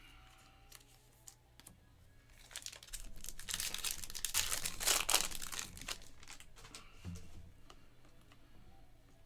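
Wrapper of a Panini Mosaic football card pack being torn open and crinkled, a dense crackling that builds about two and a half seconds in, is loudest near the middle and fades out, with a few light clicks before it.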